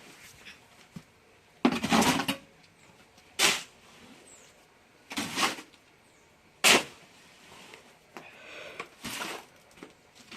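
Shovel scooping wet concrete mix and scraping through it, a rasping stroke about every one and a half to two seconds, with the longest stroke about two seconds in.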